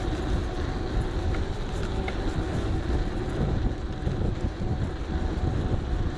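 Wind rumbling on the camera's microphone and tyres rolling on the road while riding an electric bike, with a faint steady hum above.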